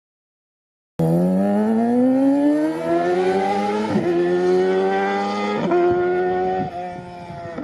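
Motor vehicle engine accelerating hard through the gears: the pitch climbs steadily, then drops and climbs again at each of about three gear shifts. It cuts in abruptly about a second in.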